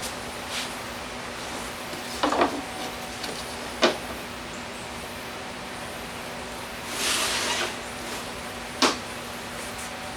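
Workshop handling sounds: a few sharp knocks, about three to four seconds apart, and a short hissing scrape about seven seconds in, over a steady low hum.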